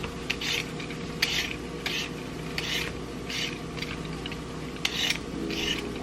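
Repeated rasping scrapes, about one stroke every 0.7 seconds, over a faint steady hum.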